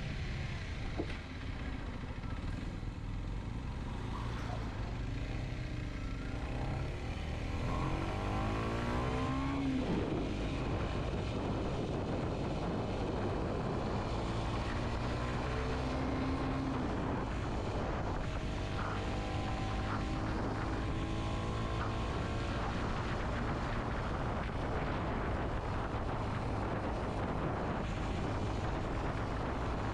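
Kawasaki Z125's single-cylinder four-stroke engine under way, its revs climbing and then dropping with gear changes a few times, over steady wind and road rush.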